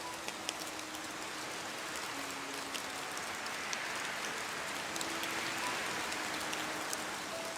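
Steady rain falling on a surface: an even hiss with scattered sharp ticks of single drops.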